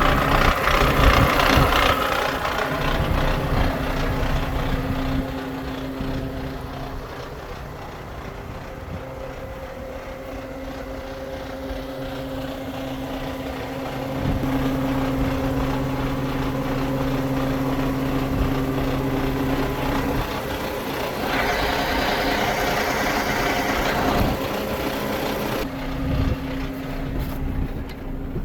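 Iveco Stralis truck's six-cylinder diesel engine idling steadily, its sound growing louder about halfway through. A louder, higher-pitched noise rides over it for about three seconds near the end.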